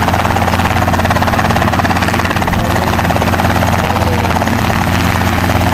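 Robinson R22 Beta II helicopter running: a steady, fast rotor chop over the even drone of its piston engine, loud and unchanging.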